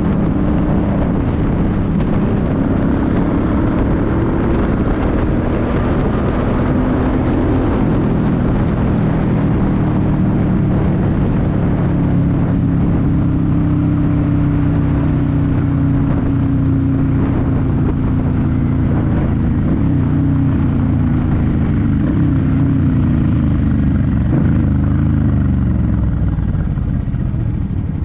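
2006 Suzuki C50's 805 cc V-twin running steadily under way, its pitch drifting slowly with the throttle and falling near the end as the bike eases off.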